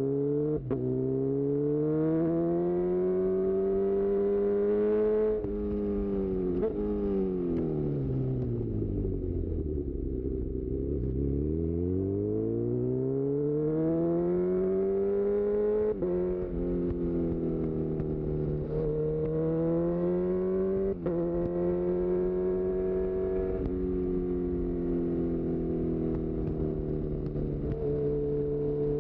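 2018 Honda CB1000R's inline-four engine through a full-system Black Widow exhaust, accelerating with a quick gear change about a second in. The revs then fall away slowly for several seconds and build again, followed by more brief shift interruptions and steadier running in the second half.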